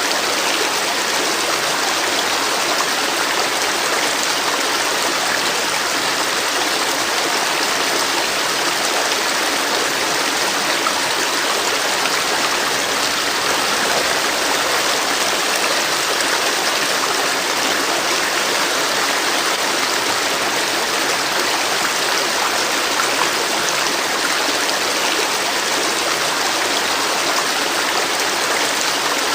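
River water flowing with a steady, even rush that does not change.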